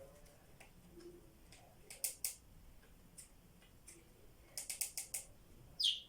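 Budgies in a quiet room making small sharp clicks, two about two seconds in and a quick run of five later, then one short chirp falling in pitch near the end.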